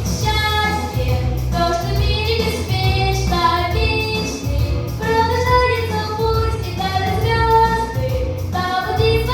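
A girl singing a song solo, holding long melodic notes over instrumental accompaniment with a steady bass line.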